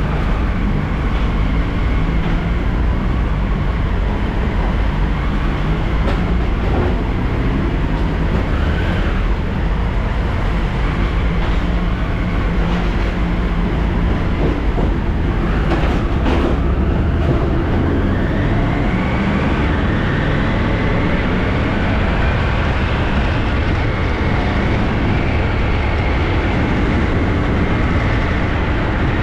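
Eurotunnel shuttle train running on the rails: a steady loud rumble and rail noise, with a whine that rises in pitch about two-thirds of the way through and then holds.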